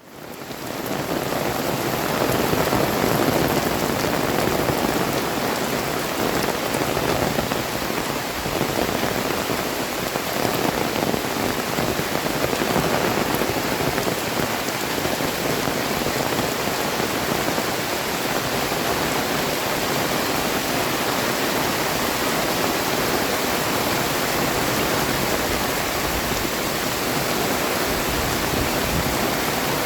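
Heavy tropical rain pouring down, a dense steady hiss of rain on surfaces that fades in at the start.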